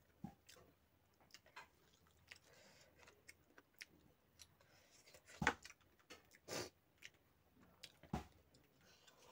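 Faint chewing and small mouth clicks from someone eating rice and chicken by hand. A few louder sudden knocks and a short hiss come in the second half.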